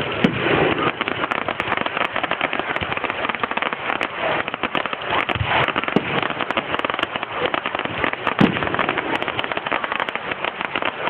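Aerial fireworks going off: a dense, continuous crackling of many rapid small cracks, with a few louder bangs of shells bursting, the loudest about eight and a half seconds in.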